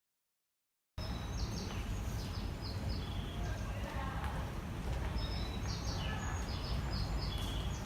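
After a second of silence the sound cuts in suddenly: a steady low rumble of outdoor background noise with repeated short, high chirps of small birds.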